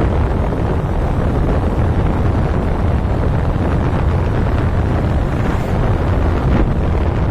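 Wind buffeting the microphone on a moving motorbike, a loud, steady low rumble with the ride noise underneath.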